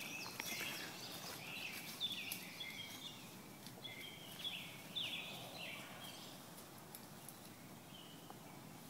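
A songbird singing a run of short, high, down-slurred whistled notes that stop about six seconds in, over faint outdoor ambience. Footsteps through leaf litter fade away at the start.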